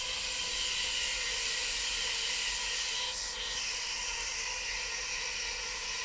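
LNER Azuma high-speed train passing close by at speed: a steady rush of wheels on rail and air, with a few faint steady tones humming within it.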